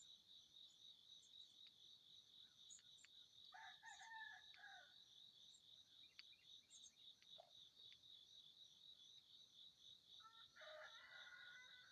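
A faint rooster crowing twice, about four seconds in and again near the end, over a steady pulsing chorus of crickets, with a few brief high bird chirps.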